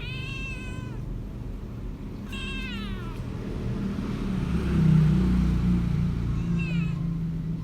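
Domestic cats yowling during a fight: three drawn-out calls, each falling in pitch, one at the start, one about two and a half seconds in and a shorter one near the end. A low rumble underneath swells to its loudest about five seconds in.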